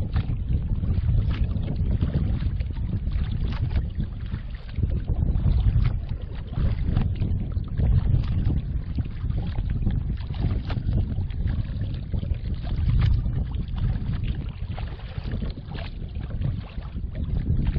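Wind buffeting the microphone in a steady low rumble, with many small irregular splashes and drips of water from kayak paddling.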